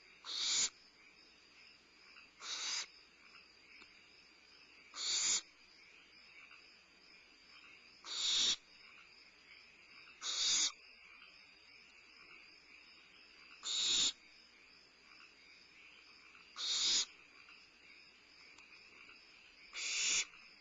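Barn owl owlets giving hissing begging calls: harsh, breathy hisses about half a second long, repeated eight times, two to three seconds apart.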